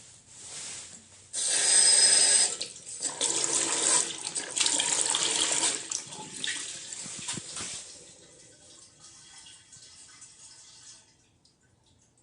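Water running from a faucet into a sink: a small flow at first, turned up strongly about a second in, then eased down after about six seconds and trickling to a stop near the end.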